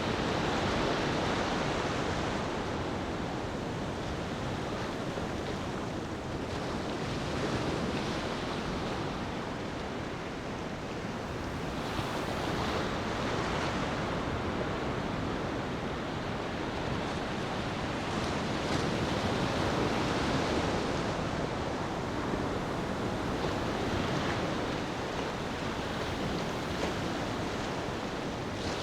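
Ocean waves washing onto a beach, a steady rushing surf that swells and eases every few seconds.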